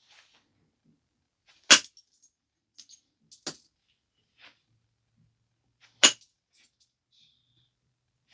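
Stone biface being knapped: three sharp clicks as flakes snap off, a couple of seconds apart, the first loudest, with light ticks and clinks of stone between.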